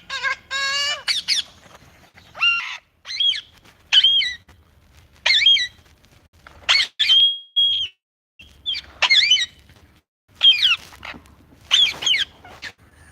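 Pet parrot calling: a string of short squawks and chirps that bend up and down in pitch, with a single held whistle about midway.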